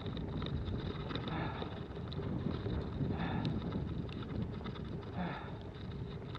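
Snowstorm wind buffeting the microphone in a steady low rumble, with a soft swish about every two seconds.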